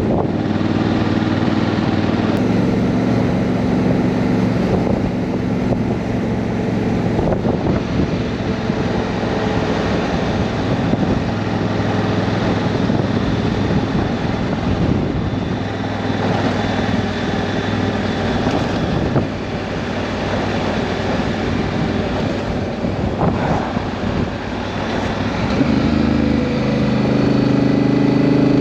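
Honda Africa Twin's parallel-twin engine running while the motorcycle is ridden, with wind rushing over the microphone. Near the end the wind eases and the engine's note comes through more clearly.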